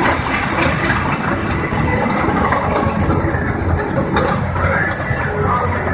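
Tractor engine running, a steady rough rumble.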